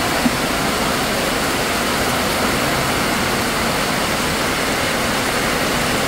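Heavy rain falling steadily, splashing on wet concrete and puddled ground.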